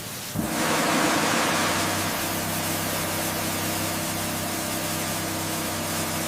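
Steady rushing hiss with a low, even mechanical hum under it; the hum comes in about half a second in and holds.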